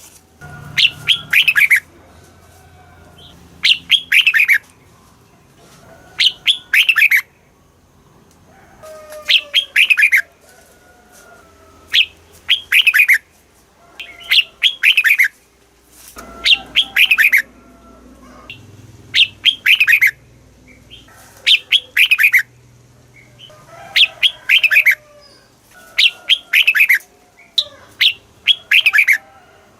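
Red-whiskered bulbul singing: short, loud, repeated phrases of quick whistled notes, one phrase every two to three seconds.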